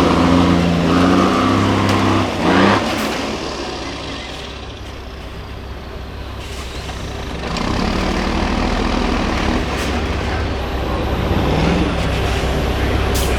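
Diesel engine of a 6x6 MAN trial truck revving and easing off as the truck works over the course. It drops to a quieter run midway, then revs up again. There is a short sharp burst about two and a half seconds in.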